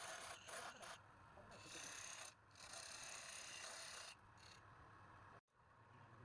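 Faint rasping hiss of a turning tool cutting wood on a lathe, breaking off and resuming several times, with the sound cutting out completely for a moment near the end.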